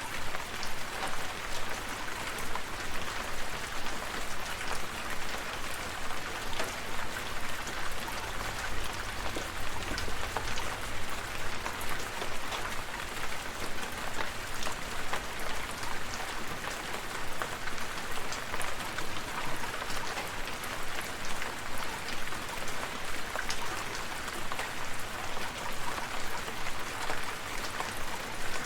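Steady rain falling, with many close drops pattering on a surface over a low rumble.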